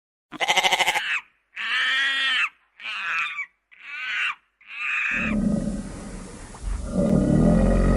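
An animal calling loudly five times in a row, each call shorter than a second. About five seconds in, this gives way to a low, rumbling animal sound over steady background noise.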